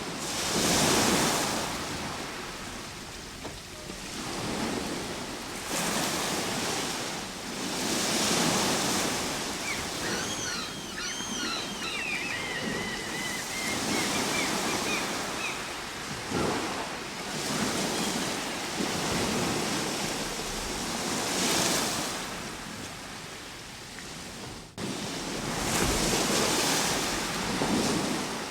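Ocean surf washing in and drawing back, swelling in waves every four to five seconds. About ten seconds in, a quick series of high, arching whistled notes sounds over the surf for a few seconds.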